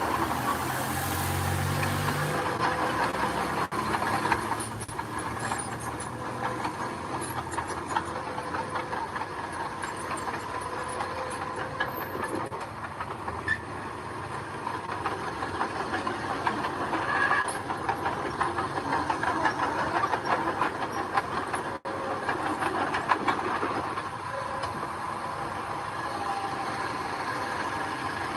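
Bulldozer running under load with the steady clanking rattle of its steel tracks and a faint squeal from the undercarriage.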